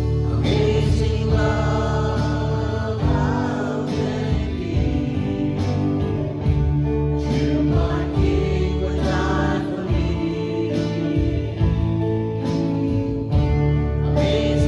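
Worship band music with a group of voices singing over sustained instrument chords.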